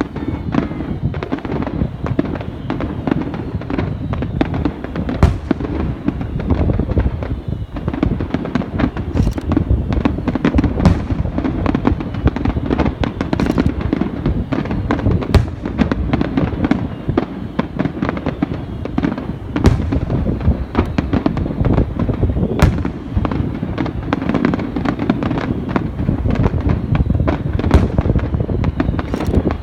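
Fireworks display in a continuous barrage: shells bursting and crackling in rapid succession, with sharper, louder bangs standing out every few seconds.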